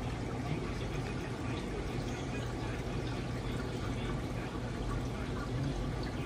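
Aquarium water circulating, pouring and trickling steadily, with a low steady hum underneath.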